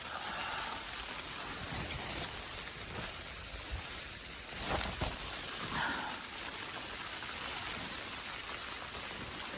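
Steady hiss of wind-driven snow falling in a blizzard, with a few soft knocks about five seconds in.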